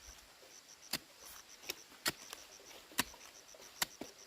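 A digging tool striking earth and stone, five sharp knocks spaced about a second apart, over faint insect chirping.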